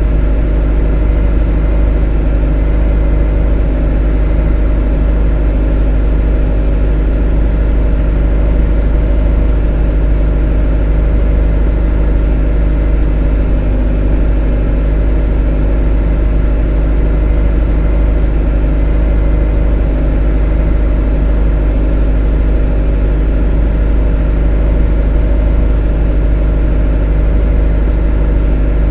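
A motor running at a constant speed: an unchanging hum with a deep low rumble underneath and several steady tones above it.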